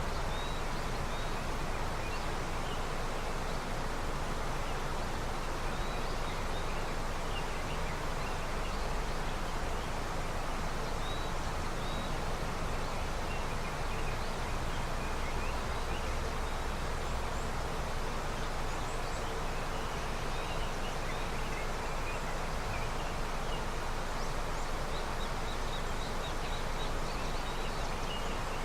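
A river running with snowmelt: a steady rush of flowing water, with small birds chirping briefly now and then, more often near the end.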